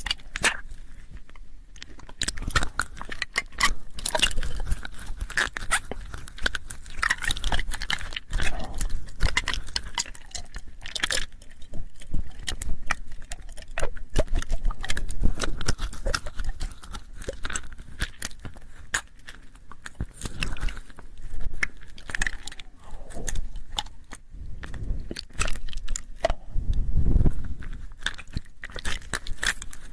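ASMR mouth sounds made close to the microphone: a dense, irregular run of quick clicks and smacks, swelling louder and fading in uneven stretches.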